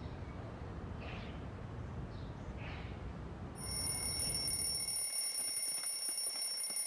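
Outdoor ambience: a low rumble with a few faint bird chirps. About halfway through, a high, steady ringing tone comes in suddenly and holds: the start of the film's soundtrack music.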